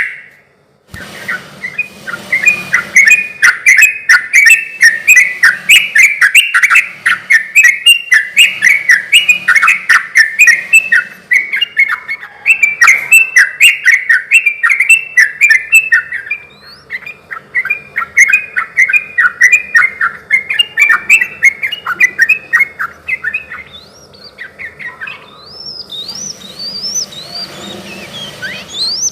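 Yellow-vented bulbul (trucukan) singing a long, fast run of loud, bubbly chattering notes. Near the end it switches to higher, rising notes.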